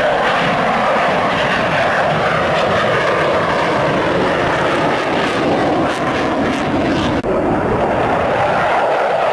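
Sukhoi Su-27 fighter's twin AL-31F turbofan engines: a loud, steady jet roar as the aircraft flies its display.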